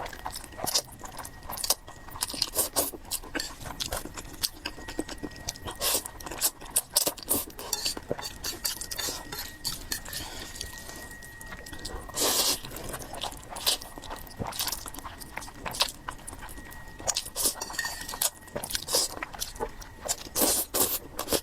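A person chewing and biting fried noodles and pork close to the microphone: many short, irregular crunching and wet clicking sounds.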